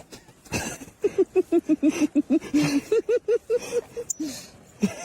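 A fast string of short, pitched vocal yelps, about five a second, starting about a second in and running on without a break.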